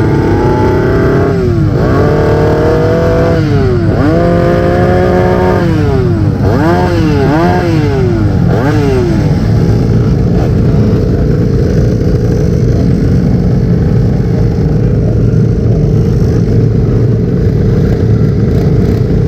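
Small 50cc dirt bike engines being revved up and down in a series of rising and falling blips, kept running at the start line, then settling into a steady drone for the second half.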